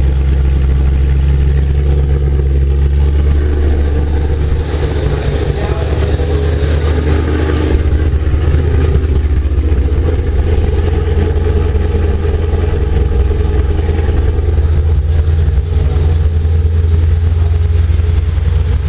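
Supercharged Ford Racing 5.0-litre V8 in a 2005 Mustang GT running at a steady idle, its note shifting slightly for a few seconds midway.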